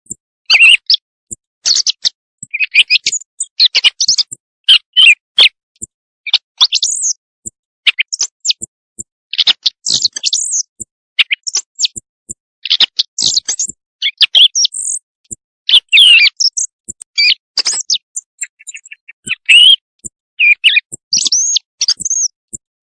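Quail calls: short bursts of rapid, high chirps with brief silences between, repeating irregularly. It is a recorded night lure call used by hunters to draw in quail.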